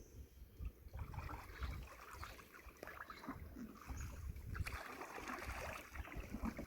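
Water splashing and trickling as a wooden canoe is paddled: irregular small splashes from paddles dipping and water moving along the hull, growing busier past the middle.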